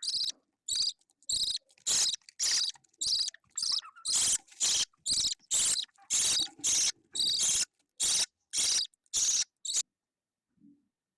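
Budgerigar chick's begging calls: short chirps repeated about twice a second that stop near the end.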